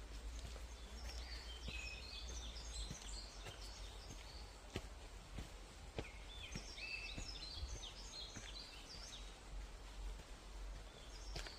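A small songbird singing two long phrases of rapid, short, high notes: one about a second in and another past the middle. A steady low rumble and scattered faint taps lie underneath.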